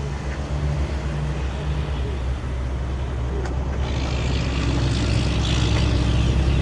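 Nissan 370Z's 3.7-litre V6 idling with a steady low hum through its dual exhaust. A hiss rises over it from about four seconds in.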